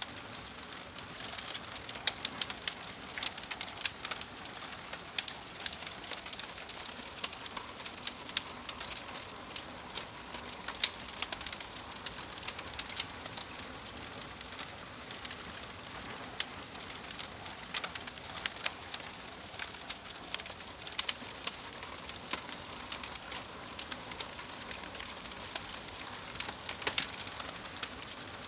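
Fire crackling: a steady hiss with frequent irregular sharp pops and snaps.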